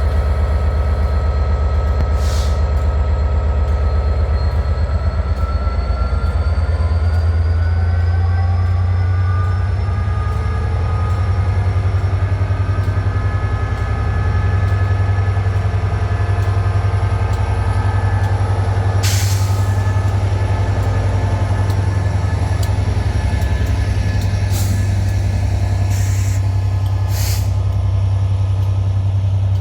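Diesel passenger train's engine running at the platform with a deep steady throb, its pitch rising over a few seconds early on. Short hisses of air break in several times, the longest about two-thirds of the way through and three more near the end.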